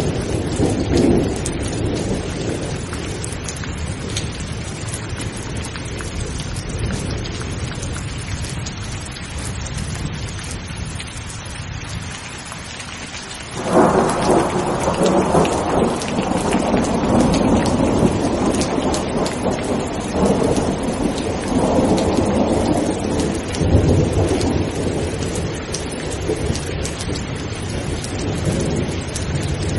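Steady heavy rain with thunder rumbling. About halfway through a sudden loud thunderclap breaks in and rolls on for several seconds, and more rumbles follow near the end.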